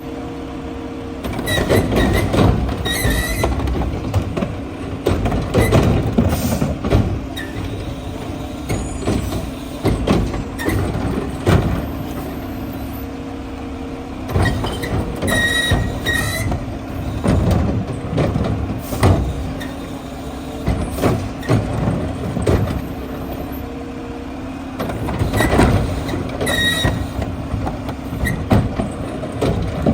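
Mack LR garbage truck with a McNeilus Meridian body and Curotto Can arm, its engine running steadily under repeated metal clanks and bangs. Short high squeals come three times: near the start, midway and near the end.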